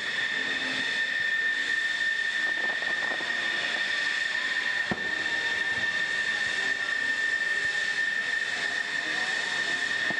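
Jet aircraft engine running steadily: a constant high-pitched whine over a hiss.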